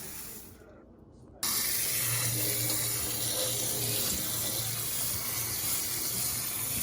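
Kitchen tap turned on about a second and a half in, water running steadily to rinse basmati rice before cooking.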